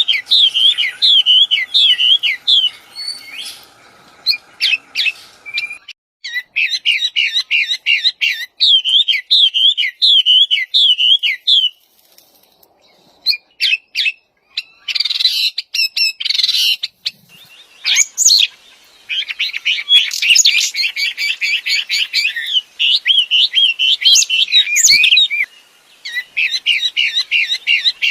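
Wambi songbird singing in bouts of fast, repeated high chirping notes that bend up and down, with brief pauses between bouts and a few sharp clicks between them.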